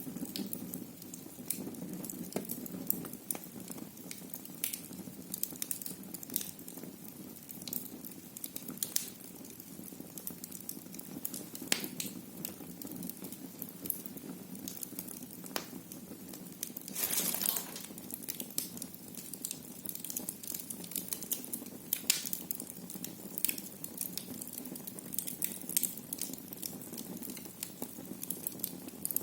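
Wood fire burning in a fireplace: irregular sharp crackles and pops over a low steady rumble of the flames, with a brief hiss a little past halfway.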